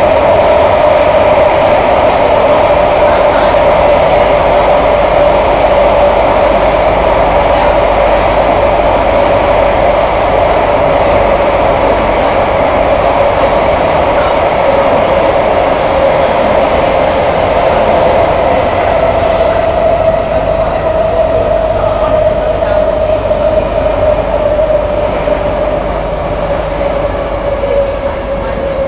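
Kawasaki–CSR Sifang C151A metro train running, heard from inside the car: a steady rumble under a loud held whine that slowly sinks in pitch. The sound grows a little quieter in the last several seconds.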